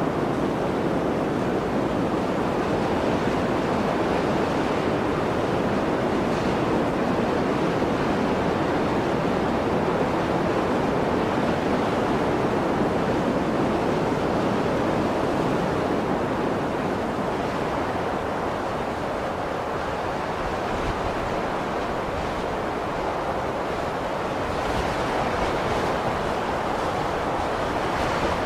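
Blizzard wind blowing as a steady, dense rushing noise that eases a little past the middle and builds again near the end.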